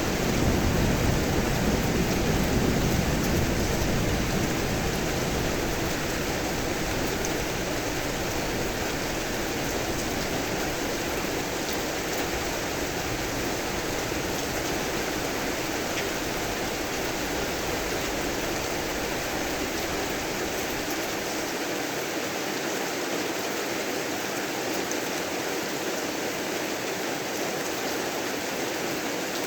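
Steady heavy rain falling. A low rumble of thunder swells in the first few seconds and fades away.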